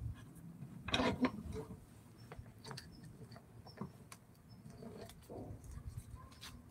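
Scattered light taps, clicks and rubbing from hand work on a wooden carving, with a louder cluster of knocks about a second in.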